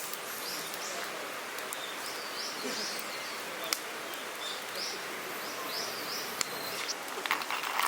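Outdoor ambience with a bird giving short, high chirps again and again. Two sharp clicks stand out, and near the end a quick rattle of clicks begins.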